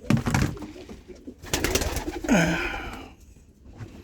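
Domestic pigeons cooing, with a short burst of rustling noise about a second and a half in.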